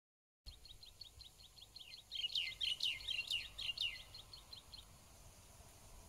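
A small songbird calling: a rapid string of short, high, downward-sliding chirps, several a second, with a burst of louder, longer down-slurred notes between about two and four seconds in, stopping near five seconds. A faint low rumble of outdoor background noise runs underneath.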